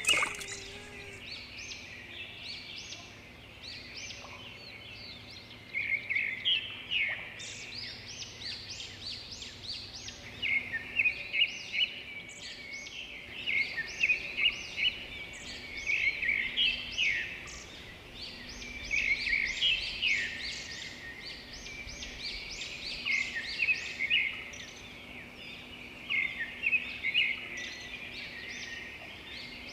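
Birds chirping in repeated bursts of quick, sharp calls, with a faint steady hum underneath.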